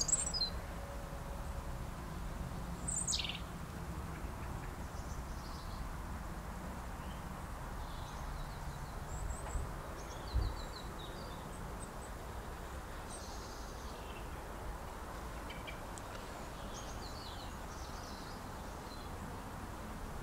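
Birds chirping on and off over a steady low background rumble. Two louder calls sweep downward in pitch near the start and about three seconds in, and there is a single dull thump about halfway through.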